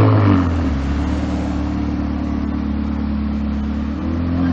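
Ferrari 360 Modena's 3.6-litre V8 engine: a rev blip at the start falls back to a steady idle, then the revs rise again briefly near the end.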